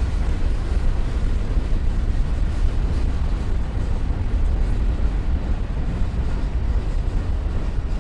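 Freight cars of a slow-moving Norfolk Southern mixed freight train rolling past, a steady low rumble of wheels on rail.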